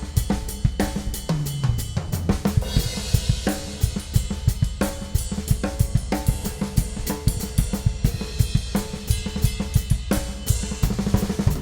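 Ludwig Classic Maple drum kit played as a busy rock groove on bass drum, Supraphonic snare and hi-hat, with a fill down the toms near the start and a cymbal crash about three seconds in.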